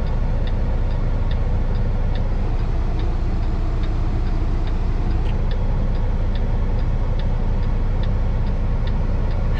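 Kenworth truck's diesel engine idling, heard from inside the cab, with a turn signal ticking steadily about twice a second.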